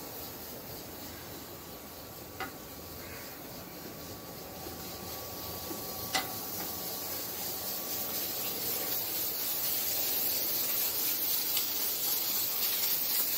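Steady hissing noise that grows slowly louder, with two brief sharp clicks.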